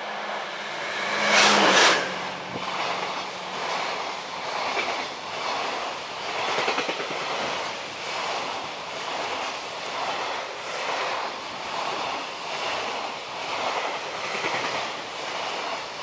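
A DF200 diesel-electric freight locomotive passes close by about two seconds in, its steady engine drone the loudest moment, then freight wagons roll past with a regular clickety-clack of wheels over rail joints about once a second.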